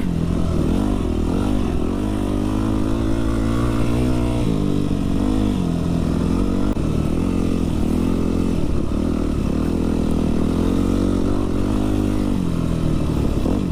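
Dirt bike engine running under way, heard through the rider's microphone, its pitch rising and falling with the throttle and dropping about four seconds in.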